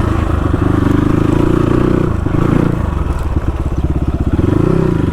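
CX250R motorcycle engine running under way, its pitch dipping and rising as the throttle is eased and opened, with a brief rise and fall near the end.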